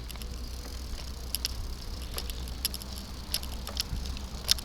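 Bicycle and its mounted camera rattling and clicking from vibration over a bumpy road: irregular sharp ticks over a steady low rumble.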